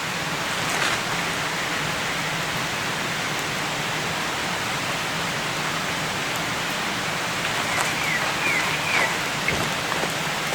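Steady rain falling, an even hiss throughout, with a few faint short chirps near the end.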